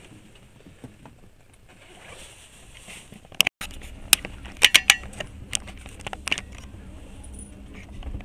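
Passenger train carriage moving off slowly. After a brief cut-out about three and a half seconds in, a low rumble sets in, with a string of sharp clicks and clanks.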